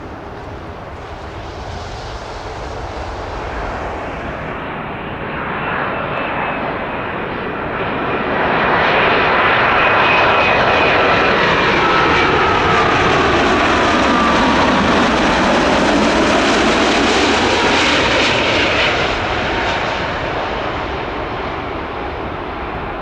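Jet airliner's engines passing close by. The sound grows louder, holds at its loudest for about ten seconds with several whining tones sliding down in pitch as it passes, then fades.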